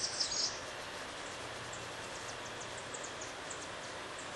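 Outdoor woodland ambience: a steady background hiss with short high bird chirps, a quick burst of them in the first half second, then scattered single chirps.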